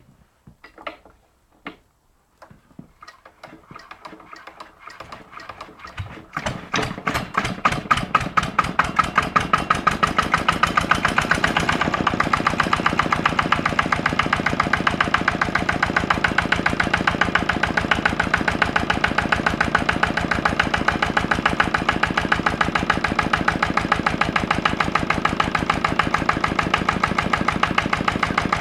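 Lister LD1 single-cylinder diesel stationary engine cold-started after a night out in the snow: a few knocks, then a quickening run of beats as it turns over, catching about six seconds in and speeding up to a steady, even single-cylinder beat.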